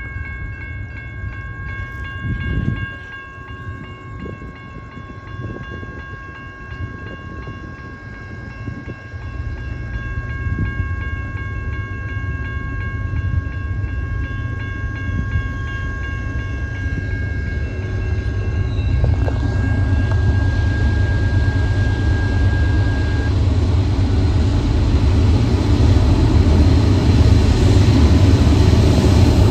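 Diesel locomotives of a CSX freight train approaching, their low rumble building steadily louder through the second half. Under it runs a steady high ringing that fades out a little past the middle.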